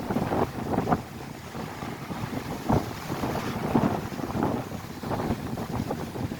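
Strong wind buffeting the microphone over crashing waves, with irregular sharp splashes and gusts every second or so.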